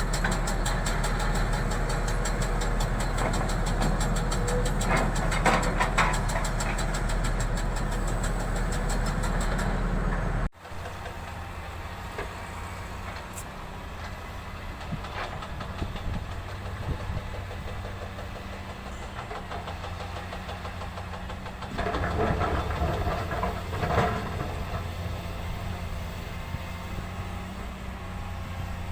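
An engine running steadily at idle. About ten seconds in it cuts off abruptly, and a quieter, similar engine drone follows, swelling briefly near the end.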